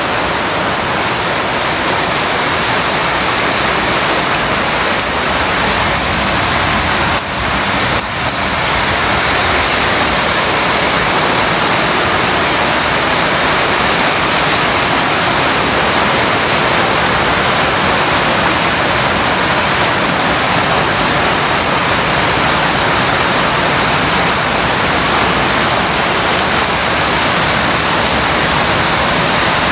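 Hailstorm: hail and heavy rain pelting down in a loud, steady rush of noise, with a brief lull about seven seconds in.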